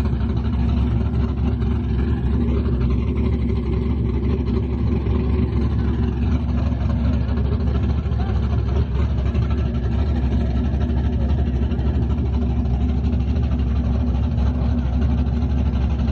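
Car engine idling steadily, a deep continuous rumble.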